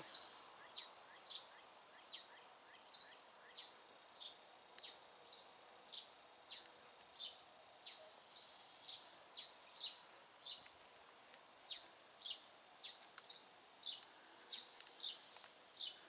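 A small bird chirping over and over, short high descending chirps at about two a second, faint.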